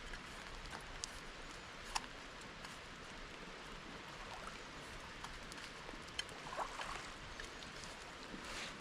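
Light rain falling, a steady hiss with scattered sharp drops and ticks.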